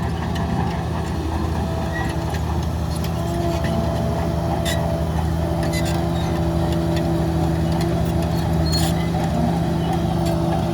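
Heavy diesel engine of earthmoving machinery running steadily at constant revs, with a few short clicks.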